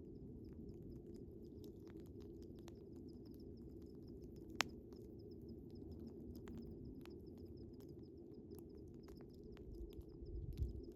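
Wood fire crackling, with scattered small pops and one sharp, louder pop about halfway through, over crickets chirping in a steady fast pulse and a low steady rumble.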